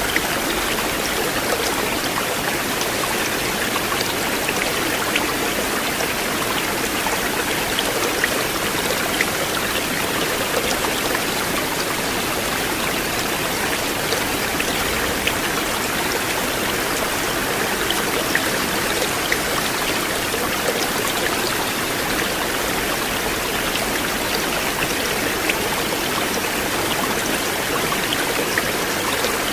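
River water flowing steadily: a dense, even rush with small splashes and scattered droplet ticks through it.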